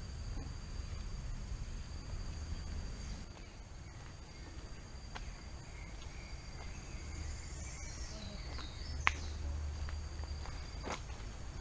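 Rainforest ambience: a steady high-pitched insect drone, with a wavering call in the middle and a few sharp clicks, the loudest about nine seconds in.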